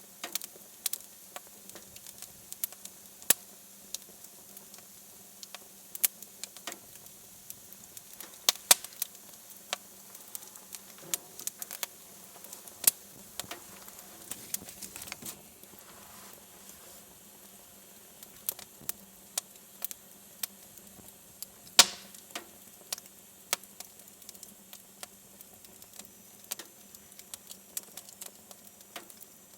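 Wood fire in a fireplace crackling: irregular sharp pops and snaps, with one louder pop about 22 seconds in, over a faint steady low hum.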